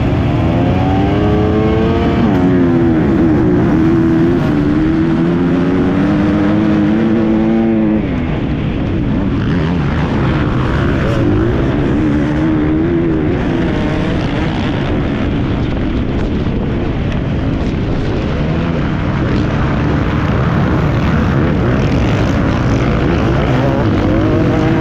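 Motocross bike engines revving, the pitch sweeping up and down for the first eight seconds, then a rougher, more even engine noise with further brief revs.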